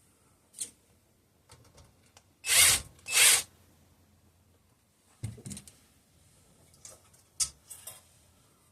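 Workshop handling of small screws and tools while a coil is being fastened. There are a few sharp clicks, and two short, loud noisy bursts about half a second apart partway through.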